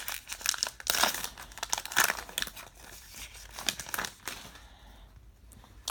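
A baseball card pack's wrapper being torn open and crinkled by hand: a dense run of crackles that thins out after about four seconds.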